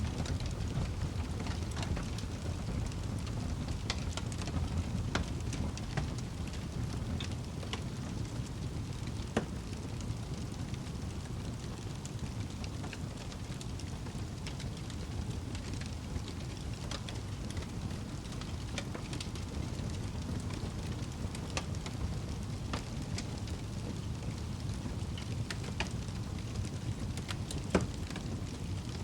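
Wood fire burning in a fireplace: a steady low rumble with scattered crackles and pops, one sharper pop near the end.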